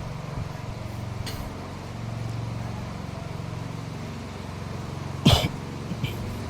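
A steady low motor hum, with a brief sharp cough-like sound about five seconds in.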